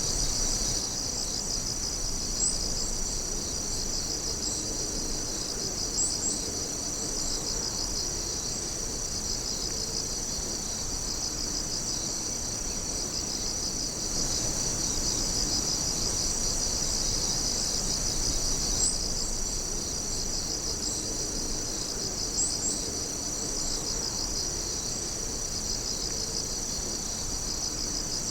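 Chorus of night-singing insects trilling steadily and densely in a high pitch, with a pulsing texture and a few brief, sharper chirps now and then.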